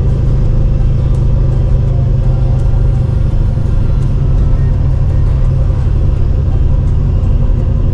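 Steady low drone of a motor vehicle running at an even, constant pace, without clear revving or changes.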